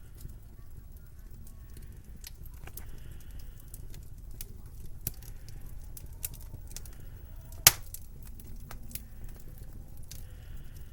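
Wood fire crackling in a fireplace: scattered small pops and snaps over a low steady rumble, with one sharp, much louder pop about three-quarters of the way through.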